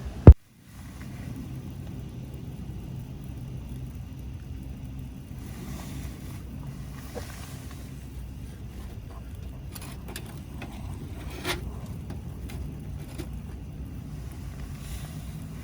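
A sharp click just after the start, then a steady low rumble of wind buffeting the microphone, with a few gusts of higher hiss and scattered light ticks.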